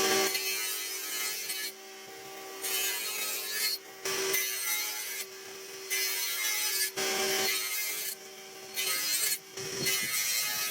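A tool working wood in repeated strokes, each about a second long with short pauses between, and a faint steady hum beneath.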